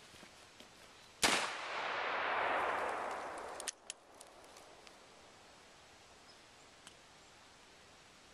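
A single shot from a scoped .44-calibre handgun, followed by a rushing after-noise that swells for about two seconds and cuts off suddenly, then a few light clicks.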